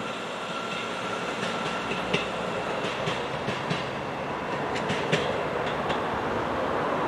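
Train running on the track: a steady rumble with irregular sharp clicks from the wheels and rails.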